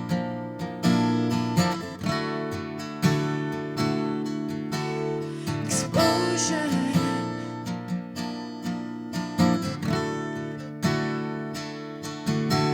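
Acoustic guitar playing an instrumental passage: chords strummed about once a second and left to ring, each stroke fading before the next.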